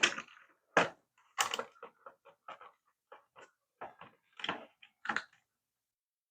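Irregular clicks and knocks of a plastic toy car being handled and worked apart, about a dozen over five seconds, stopping near the end.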